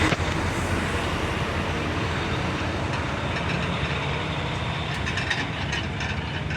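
Engine of a large mobile command truck running as it pulls away, a steady low rumble that slowly gets quieter.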